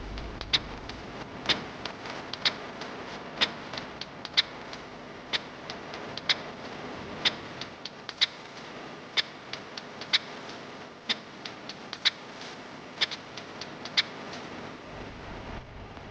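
Sharp taps or clicks, a loud one about once a second with fainter ones in between, over a steady hiss.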